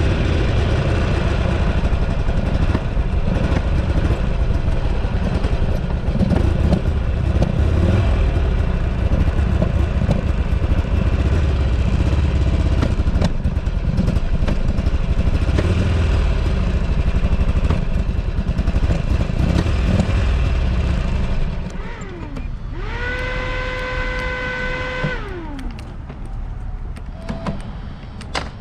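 Buell Ulysses XB12XT's 1203 cc V-twin engine running while riding, with heavy wind noise on the microphone. About 21 seconds in, the engine rumble drops away and a steady whine rises, holds for about two and a half seconds, then falls away.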